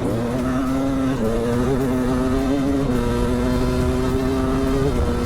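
Dirt bike engines running, a YZ500 two-stroke and a KX450 four-stroke held at steady revs, with the pitch stepping up about a second in and again about three seconds in, under background music.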